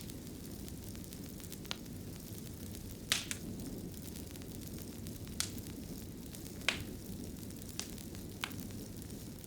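Wood fire burning in a fireplace: a steady low rumble of flames with sharp crackles and pops every second or two, the loudest about three seconds in and just under seven seconds in.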